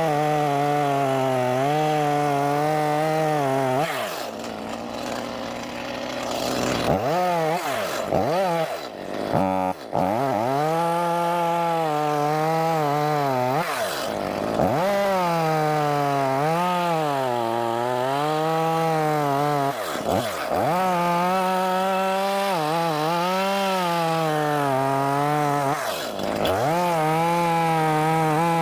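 Stihl two-stroke chainsaw cutting wood at high revs, its pitch sagging again and again as the chain bogs in the cut and then picking back up. About four seconds in the revs fall off for a few seconds before the saw is throttled up again.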